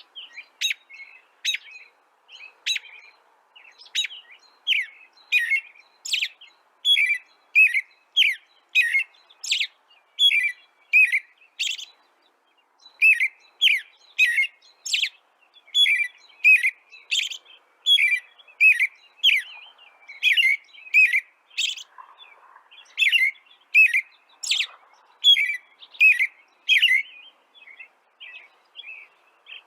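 A songbird chirping over and over: short, sharp, high chirps about two a second, with a brief pause about twelve seconds in.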